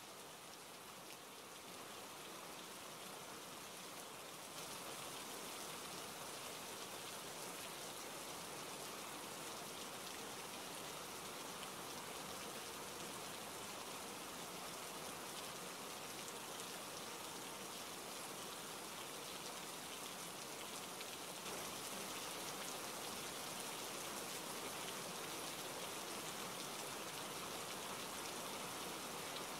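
Steady rainfall, with a dense patter of drops on surfaces; it grows slightly heavier a few seconds in and again about two-thirds of the way through.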